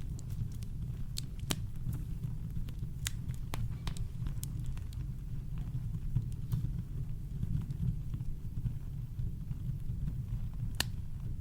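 Campfire crackling: irregular sharp pops and snaps, a few a second or fewer, over a steady low rumble of brown noise.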